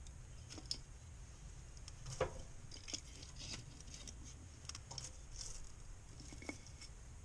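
Wood fire burning in a wood stove, with faint, irregular crackles and pops of burning firewood, the sharpest snap about two seconds in.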